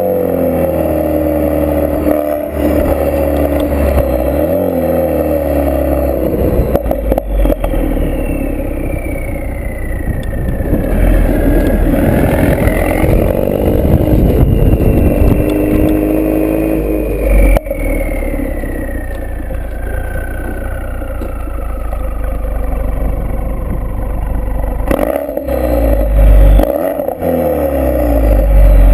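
Exhaust of a Ford Focus RS mk3's turbocharged 2.3-litre four-cylinder, running through a Milltek Sport decat, non-resonated exhaust, pulling up through the revs. It breaks off sharply at gear changes: about a quarter of the way in, past the middle, and near the end.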